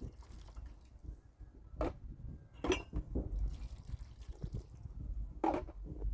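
Water sloshing and dripping, with a few louder sharp sounds about two, almost three and five and a half seconds in.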